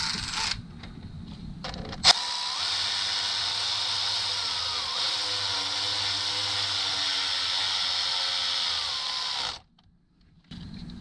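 A cordless power tool's motor spinning steadily for about seven seconds, its pitch wavering slightly, as it runs an engine front cover bolt in without tightening it down; it stops abruptly near the end. A brief burst from the same tool comes at the very start.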